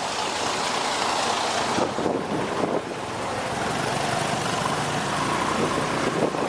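Motorbike riding through town traffic: engine running under steady road and wind noise, with a low engine hum coming through more clearly about halfway through.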